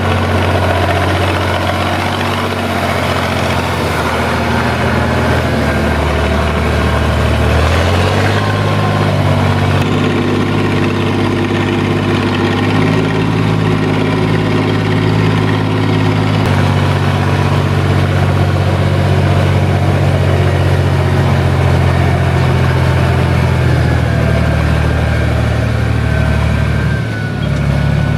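SAME Laser 110 tractor's diesel engine running steadily under changing load, its note stepping up and down several times.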